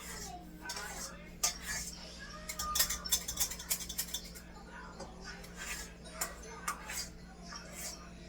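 Metal utensils clinking and scraping against a cooking pot and dishes in a series of irregular sharp clinks.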